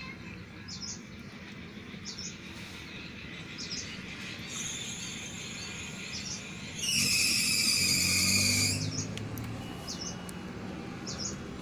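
A bird chirping outdoors, short high calls about once a second. Past the middle comes a louder, high-pitched sustained sound lasting about two seconds.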